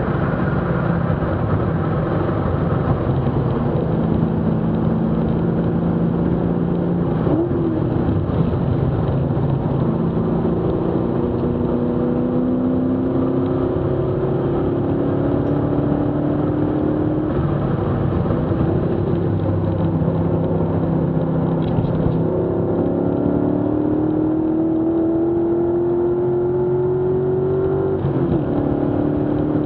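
TVR Chimaera's Rover V8, heard from inside the cabin on a hard sprint run. It eases off and changes down as the car slows for a corner. Later the note rises steadily under full acceleration, with a short break for an upshift near the end.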